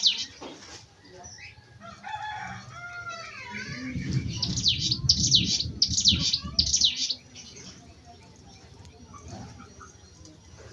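Ciblek gunung, a prinia, singing a series of high, sharp notes that each sweep downward, about four in a row in the middle of the stretch. Lower gliding calls from another bird come early on, and a low rumble runs under the song for about three seconds.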